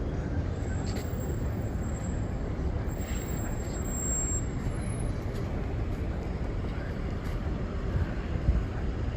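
Street ambience of road traffic: a steady low rumble of passing vehicles, with a few faint clicks.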